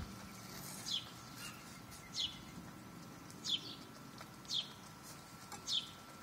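A bird chirping: five short, high, falling chirps, about one every second and a bit.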